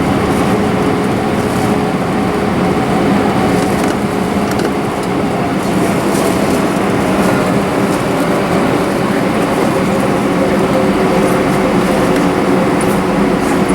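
Airbus A320 jet engines heard inside the cabin: a steady rumble with several humming tones that drift slightly in pitch in the second half.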